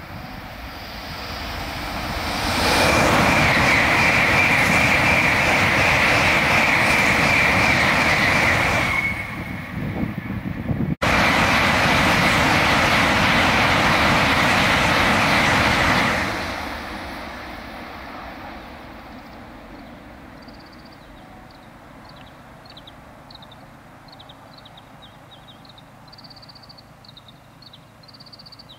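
N700 series Shinkansen train passing at high speed. A rush of wind and wheel noise builds over about three seconds and holds loud, with a steady high whine, for about thirteen seconds. It then fades away as the train recedes.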